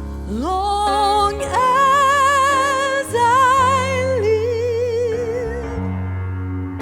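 A worship song: a solo voice sings long held notes with a wide vibrato over sustained keyboard chords and a steady bass. The voice slides up into its first note and falls silent shortly before the end, leaving the accompaniment.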